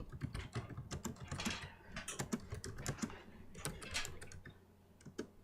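A rapid, irregular run of light clicks and taps, thinning out near the end.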